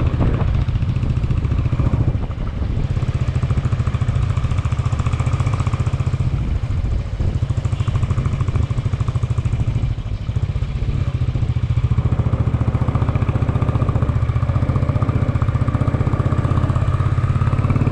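Motorcycle engine running steadily while riding, with a rapid pulsing throb that eases off briefly a few times.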